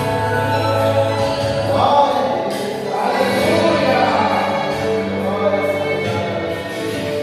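Gospel music: a band playing with a choir singing.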